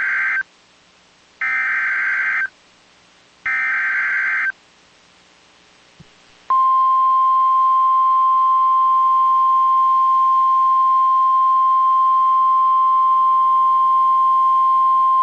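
NOAA Weather Radio Emergency Alert System signal. First come the raspy digital bursts of the SAME header data, the tail of one and then two more, each about a second long. After a short pause comes the steady 1050 Hz warning alarm tone, which starts about six and a half seconds in and holds for about nine seconds. The signal announces that a severe thunderstorm warning is being issued.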